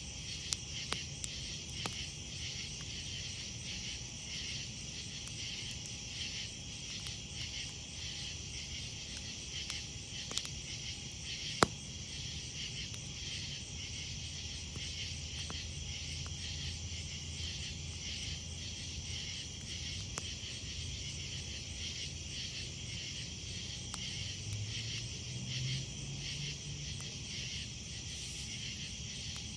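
Night insects chirping in a steady, fast-pulsing high chorus, with a few sharp crackles from a wood campfire: several near the start and one loud pop about halfway through.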